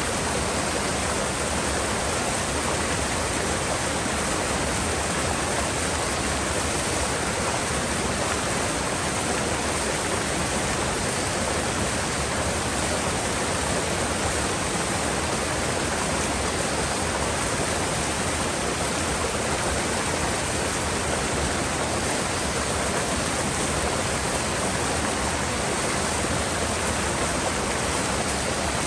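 Mountain gorge river water rushing steadily: an even, unbroken rush with no change in level.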